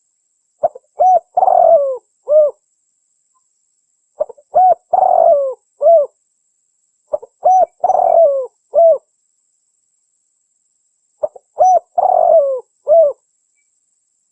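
Spotted dove cooing: four call phrases a few seconds apart, each a couple of short coos, a longer coo that falls in pitch, and a closing coo, with silence between the phrases.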